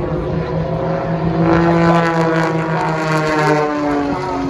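Propeller aircraft engines droning overhead in a steady, loud hum whose pitch slides slightly lower as the aircraft pass.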